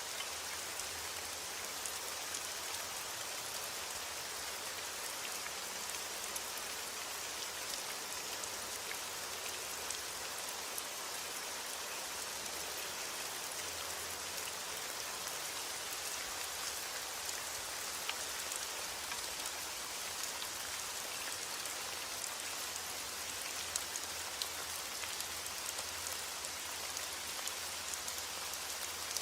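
Steady heavy rain, an even hiss with many small sharp drop ticks as it falls on a surface.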